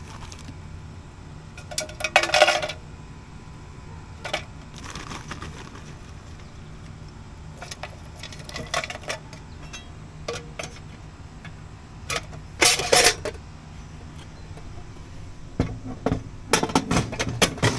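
Scattered metallic clinks and clatters of pans and racks being handled, in separate bursts with the loudest near the middle and a cluster near the end, over a steady low hum.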